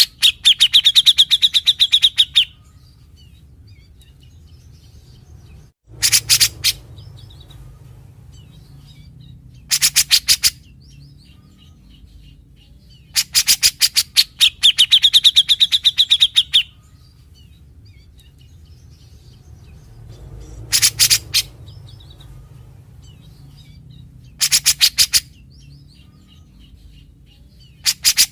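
Cucak jenggot (brown-cheeked bulbul) giving its harsh, rasping rattles, the "besetan" it is known for, in bursts of about half a second to three seconds, seven times, with quiet gaps and faint chattering between them.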